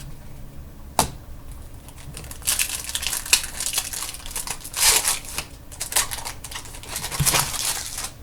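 Crinkling and rustling of trading-card packaging and cards being handled, coming in a series of bursts. There is a single sharp click about a second in.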